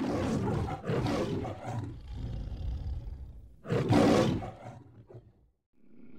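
Lion roaring: a run of roars in the first two seconds, then a louder roar about three and a half seconds in that fades away.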